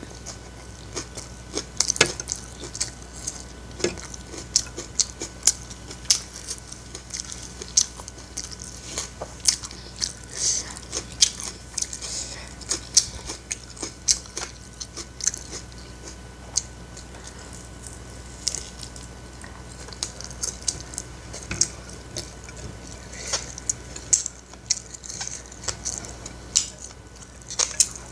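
Close-up chewing of a mouthful of fried rice with raw napa cabbage: a continuous stream of short, wet mouth clicks and crunches. A steady low hum sits underneath.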